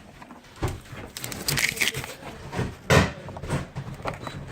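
Knocks and rustling from handling the dehumidifier and its power cord while it is being plugged in, with one sharp knock about three seconds in.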